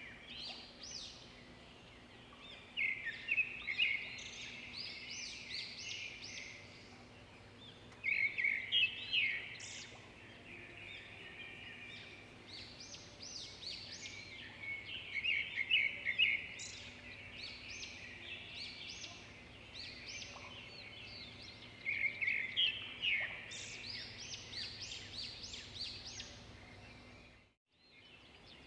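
Swiftlets twittering: repeated bursts of high, rapid chirps and trills coming in waves every few seconds, over a faint steady hum. The sound breaks off briefly near the end.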